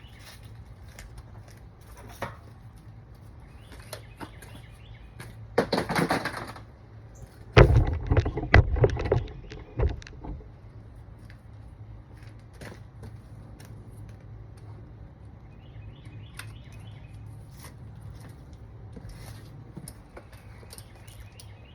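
A short hiss-like burst about six seconds in, then a couple of seconds of loud knocks and rattles, over a steady low hum, with faint bird chirps now and then.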